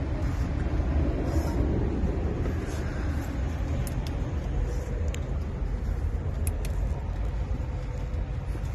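A steady low rumble, with a few faint clicks and rustles from hands working inside a truck dashboard's open air-filter compartment.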